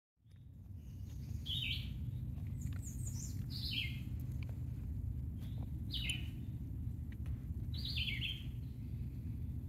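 A songbird singing short, high phrases of a few stepped-down notes, repeated about every two seconds, over a steady low rush.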